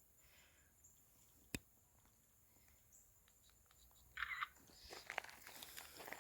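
Mostly quiet outdoors, broken by a single sharp click about a second and a half in. From about four seconds in comes irregular crunching and rustling, like footsteps through dry ground cover.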